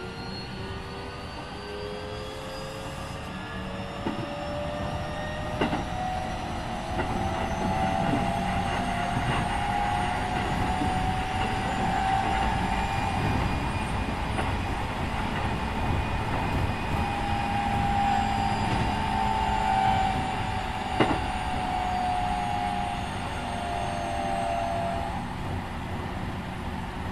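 Keikyu 1500-series electric train with a Mitsubishi IGBT-VVVF inverter, heard from inside the motor car. The inverter and traction motor whine rises in pitch as the train accelerates, then levels off over the steady rumble of the wheels on the rails, with a few sharp clicks from rail joints. The whine drops away near the end.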